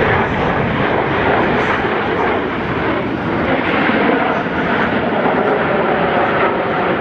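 Jet aircraft flying over, a steady loud rush of engine noise.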